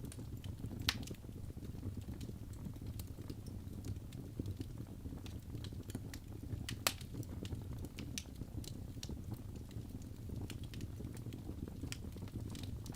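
Wood logs burning in a fireplace, crackling with irregular sharp pops over a low steady rumble of flames; the two loudest pops come about one second in and about seven seconds in.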